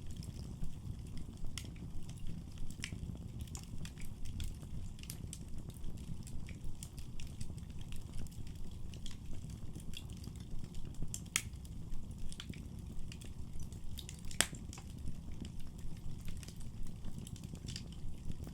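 Wood fire burning in a fireplace: a steady low rumble of flames under frequent irregular crackles and pops. The sharpest pops come about 11 and 14 seconds in.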